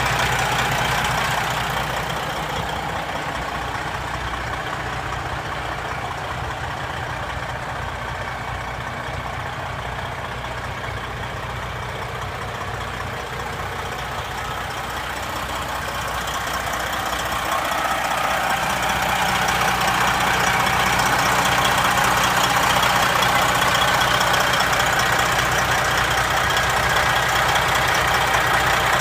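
Detroit Diesel Series 60 inline-six diesel in a 2008 Freightliner Cascadia tractor idling steadily. It grows louder about two-thirds of the way through and stays at that level.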